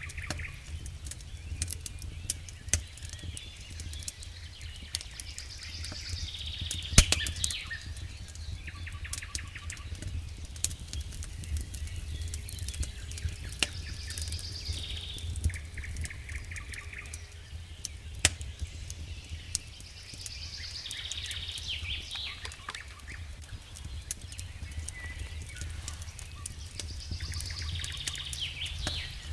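Campfire crackling with frequent sharp pops, one louder pop about seven seconds in, while small birds sing short chirping phrases that come again every several seconds over a steady low rumble.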